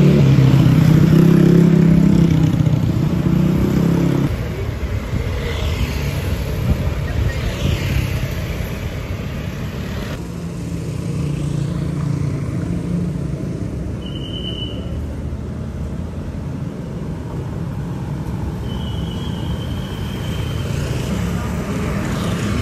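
Passenger train running: a steady rumble, with a loud low drone for the first four seconds. Later a brief high tone sounds twice.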